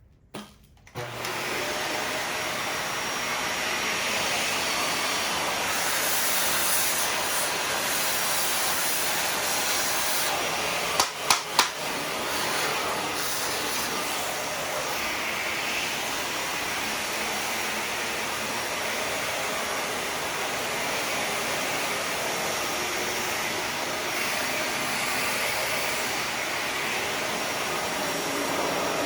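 Vacuum cleaner switched on about a second in and running steadily, with three sharp knocks about eleven seconds in.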